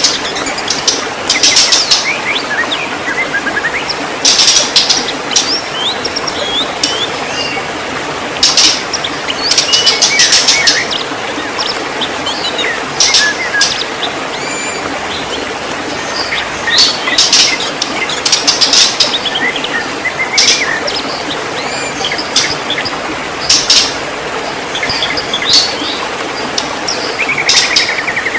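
White-rumped shama singing: bursts of rapid, high chattering notes mixed with sliding clear whistles, coming every second or two over a steady background hiss.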